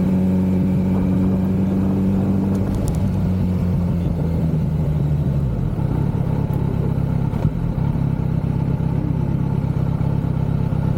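Kawasaki Z900 inline-four engine running on the move, with road and wind noise. Its note holds steady, then drops to a lower steady pitch between about three and five seconds in as the engine speed falls.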